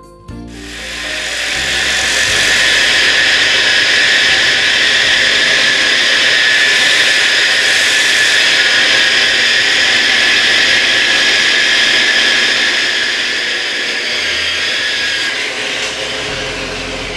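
Bosch variable-speed grinder spinning a dry diamond polishing pad against a marble countertop: a loud, steady high whine and rasp of the pad on the stone. It starts about half a second in and eases off near the end, with background music underneath.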